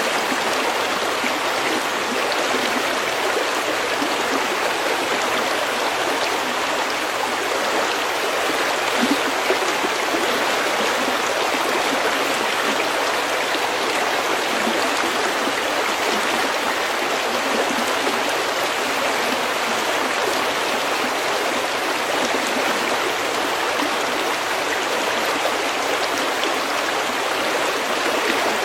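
Snowmelt stream running steadily: an even, unbroken rush of flowing water.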